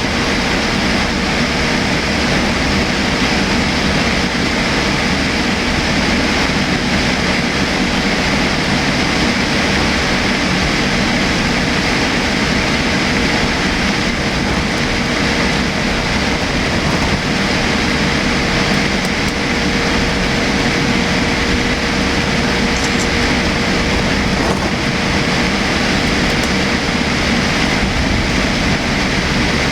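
Steady airliner cabin noise inside an ANA Boeing 787-8 in flight: an even rush of airflow and engine noise with a thin, steady hum, unchanging throughout.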